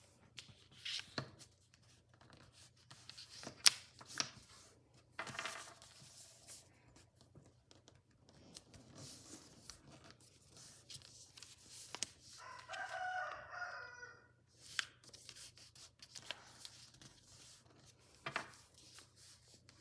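A sheet of paper being folded and creased by hand: rustling and crinkling with sharp crease snaps, the loudest about a third of the way in. About two-thirds of the way in, a wavering pitched call lasting about two seconds sounds in the background.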